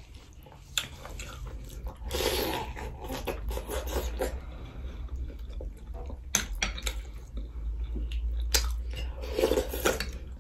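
Close-miked chewing and crunching of chana nimki jhol, with several sharp clicks of a metal spoon against the ceramic bowl, over a low steady hum.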